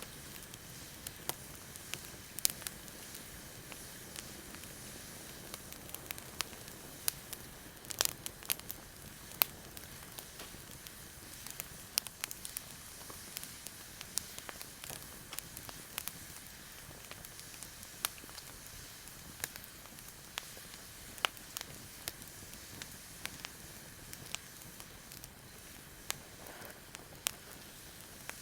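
Wood campfire crackling: irregular sharp pops and snaps over a soft steady hiss, with a cluster of louder pops about eight seconds in.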